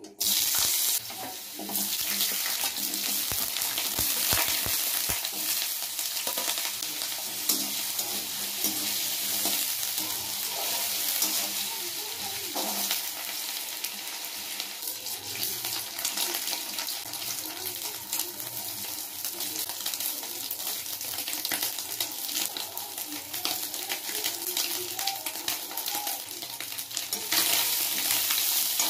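Diced potato hitting hot oil in a steel kadhai, sizzling loudly at once, then frying with a steady sizzle while a steel spatula scrapes and stirs with many small clicks. The sizzle grows louder near the end as soya chunks are stirred in.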